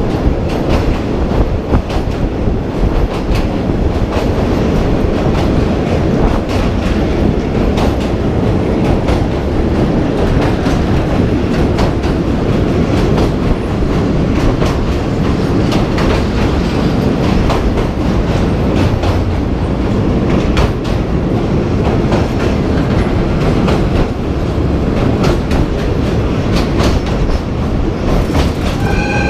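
Train running along the track: a steady loud rumble with the clickety-clack of wheels over rail joints. A horn starts to sound right at the end.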